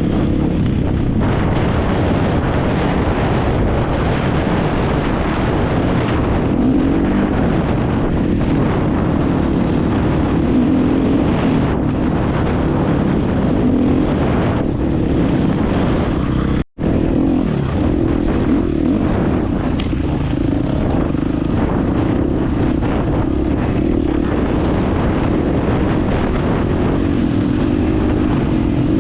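Dirt bike engine running steadily under way, with a brief dropout about 17 seconds in.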